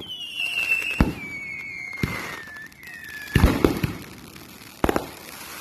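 Fireworks bursting in a string of bangs about a second apart, the loudest a quick cluster about three and a half seconds in. A whistle falls steadily in pitch through the first half.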